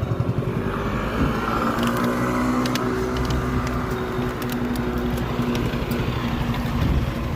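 Road traffic: a motor vehicle's engine running steadily close by, with scattered light clicks.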